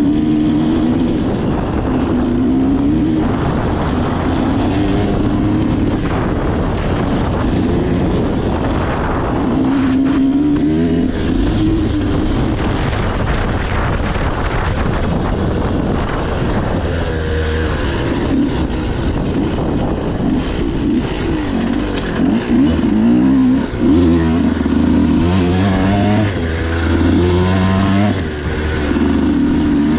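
Dirt bike engine being ridden, its pitch rising and falling over and over as the throttle is opened and closed and it runs through the gears.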